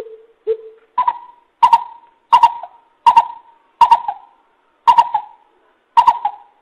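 Coucal calling: two low hoots, then a run of seven louder, higher-pitched hooting calls, roughly one every 0.7 seconds.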